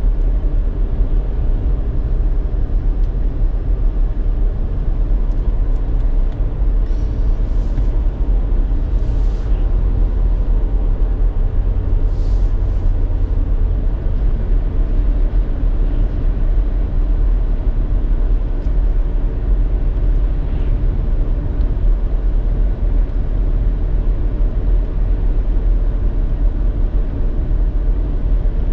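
Steady road and engine noise inside a moving car's cabin: a constant low rumble of tyres and engine at cruising speed.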